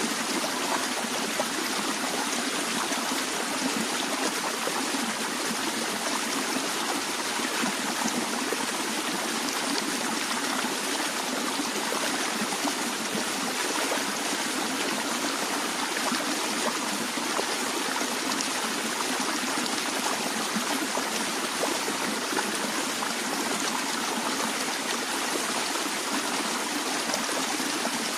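A stream of gently flowing water running over stones, a steady even rush with light trickling and no breaks.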